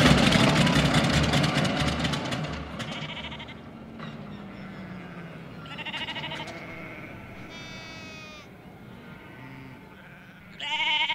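Sheep bleating several times in short, wavering calls, the loudest near the end, over a rushing noise that fades away over the first few seconds.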